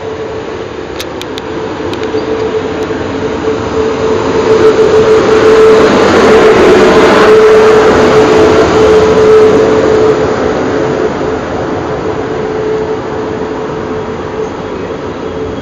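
South Western Railway Class 450 electric multiple unit running past alongside the platform: a rumble with a steady whine through it, growing loud as the cab and front carriages pass and easing off as the rest of the train goes by.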